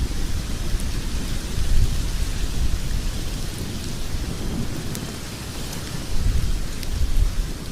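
Logs burning in a fireplace: a steady low rumble and hiss of the flames that swells and eases, with a few sharp crackles and pops.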